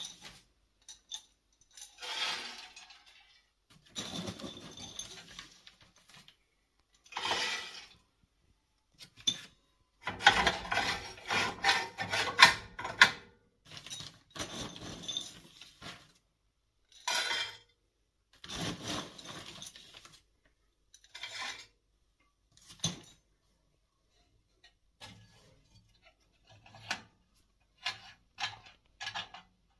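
Metal objects clinking and rattling in irregular bursts, with short quiet gaps between them. The bursts are busiest and loudest a third of the way through.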